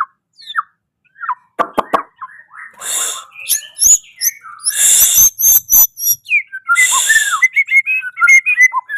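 White-rumped shama calling in short whistled chirps and sliding notes that grow busier toward the end. Three short noisy bursts come about two seconds apart, and a few sharp clicks sound near two seconds in.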